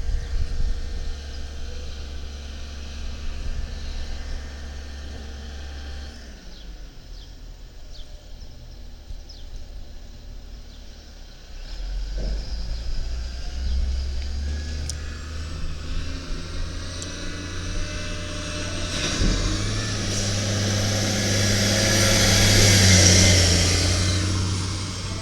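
Cat 3126 diesel engine of a Peterbilt 320 front-loader garbage truck running. It grows louder from about halfway through, peaks near the end and then eases off.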